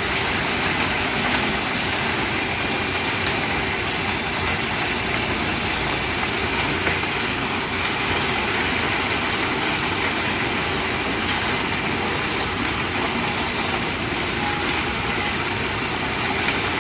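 Concrete mixer truck's diesel engine running steadily, a loud, even, unchanging noise.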